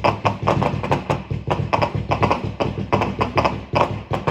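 Fireworks crackling and popping: a rapid, irregular string of sharp cracks, several a second, over a low rumble.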